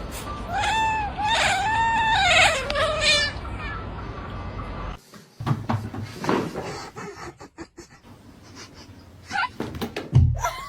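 A cat meowing about four times in a row, each call rising and falling in pitch. Later come scattered knocks and a heavy thump near the end.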